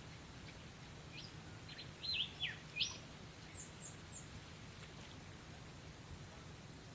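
A bird calling: a quick run of short whistled notes sweeping up and down, the loudest about two to three seconds in, followed by three short high chirps.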